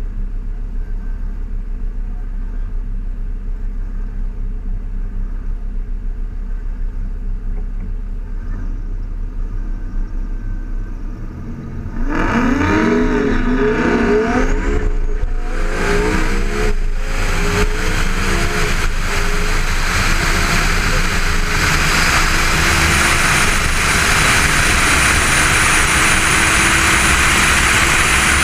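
Twin-turbo Lamborghini Gallardo Superleggera V10 on a half-mile pass. It first runs muffled and low for about twelve seconds, then turns suddenly loud at full throttle, its pitch sweeping up and dropping several times through the gear changes. It then pulls hard with a rising engine note, and a high steady whistle joins in near the end.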